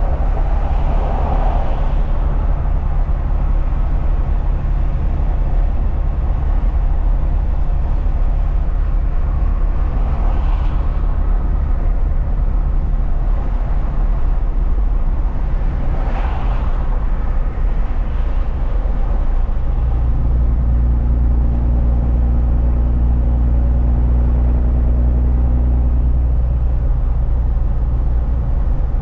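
A truck driving on the road, its engine and road noise running steadily with a deep hum. About twenty seconds in, the engine note deepens and grows stronger, with a steady droning tone for several seconds.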